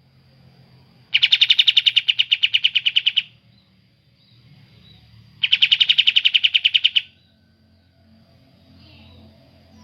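A songbird sings two fast, rattling trills of about a dozen evenly spaced notes a second, each lasting about two seconds: the first starts about a second in, the second about five seconds in.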